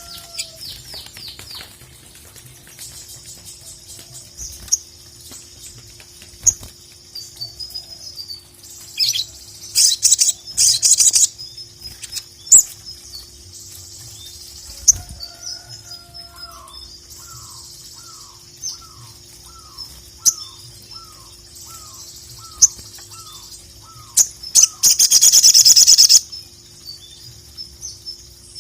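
Sogok ontong (sogon) sunbird singing: a continuous high twittering of quick chirps and trills, broken by loud, dense rattling bursts about ten seconds in and again near the end. Midway a lower, slurred note repeats about a dozen times, roughly once every two-thirds of a second, over a faint steady hum.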